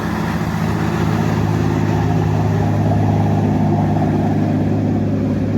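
A motorboat's engine running steadily as the boat goes by: a low, even drone, a little stronger about halfway through.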